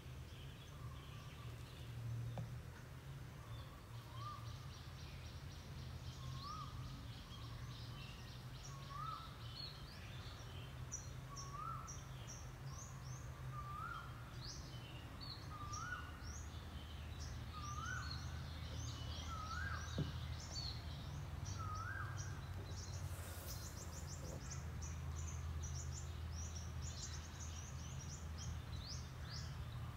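Birds calling in the background. One repeats a short rising note about every second and a half, stopping about two-thirds of the way through, over many quick higher chirps from other birds, with a low steady hum beneath.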